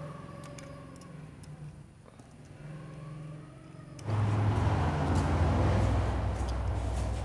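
A quiet low hum with a few light clicks, then about four seconds in a loud, steady, low motor-vehicle engine drone starts abruptly and runs on.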